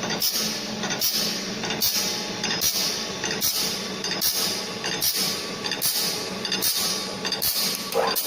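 Automatic circular saw blade grinder working tooth by tooth: a grinding stroke with a hiss about every 0.7 seconds over the steady hum of the machine's motor.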